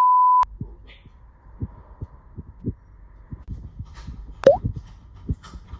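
A short steady electronic beep at the start, then scattered soft low thuds and one brief rising squeak.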